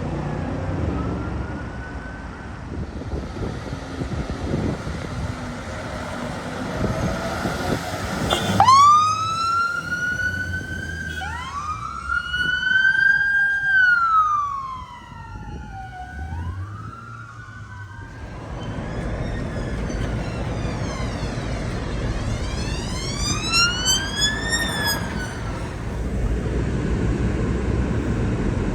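Emergency vehicle siren switching on suddenly about a third of the way in and wailing, its pitch sweeping slowly up and down, over road traffic. After it cuts off, another siren rises and falls more faintly near the end.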